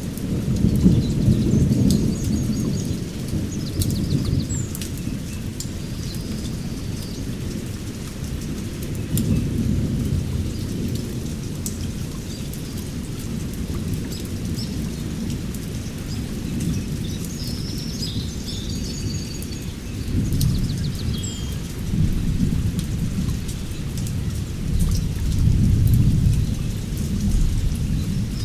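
Thunder rumbling continuously, swelling louder several times, over steady rain with scattered drops. A few birds chirp briefly, high and faint, near the start and again past the middle.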